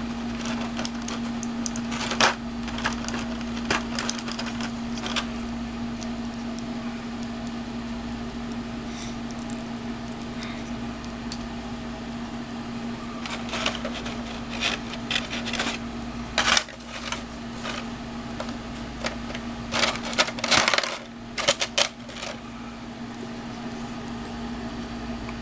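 Small hard plastic parts of an action figure clicking and tapping in irregular clusters as they are handled and pushed into place, over a steady low hum.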